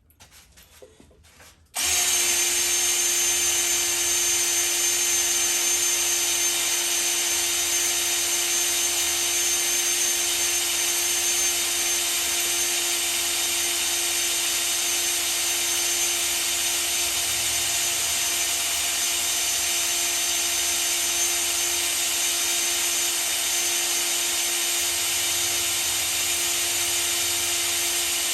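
Electric drill starting about two seconds in and running steadily at one constant speed, driving a junkyard Pontiac V8's oil pump to prime the engine and bring oil up.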